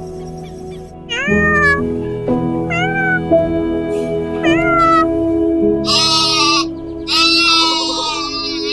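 A cat meowing: three short meows, each rising then falling, about a second and a half apart, then two longer, brighter calls, over steady background music.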